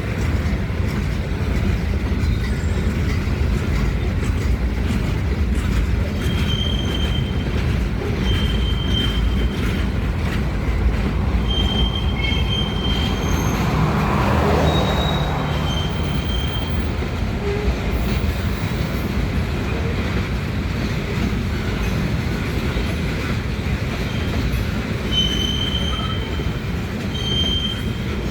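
Loaded gravel freight train rolling past, a steady low rumble of wheels on the rails with short, high wheel squeals every few seconds.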